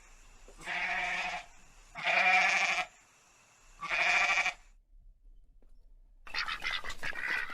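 Livestock bleating: three separate bleats, each just under a second long, about a second apart. Near the end a busier stretch of mixed, chattering noise begins.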